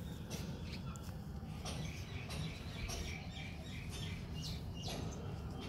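Small birds chirping, a quick busy run of short high chirps in the middle, over a steady low hum.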